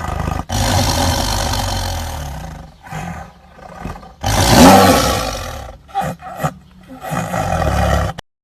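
A big cat roaring in a series of loud roars with short pauses between them, the loudest about halfway through; the recording cuts off abruptly near the end.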